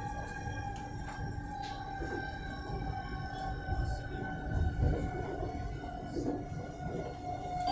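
Electric commuter train heard from inside the carriage while running: the electric traction motors give a whine of several steady tones over the low rumble of wheels on the track. The whine's pitch falls slowly, as it does when the train slows.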